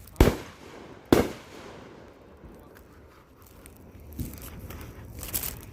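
Fireworks going off: two loud bangs about a second apart, then fainter pops and crackling near the end.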